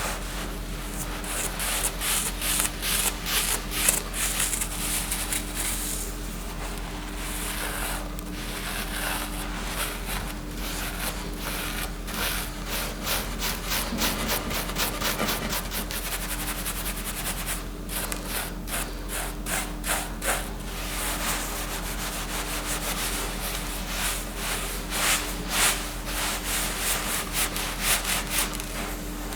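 Rapid repeated scraping strokes, coming in clusters, over a steady low hum.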